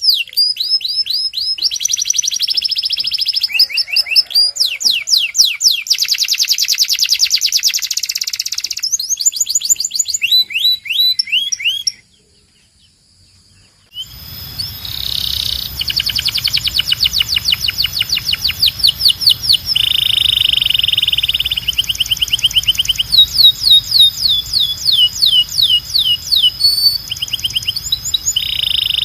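Domestic canary (Belgian canary) singing in rapid rolling trills and repeated note series. About twelve seconds in the song stops for two seconds, then resumes over a steady low hum and a thin high steady tone.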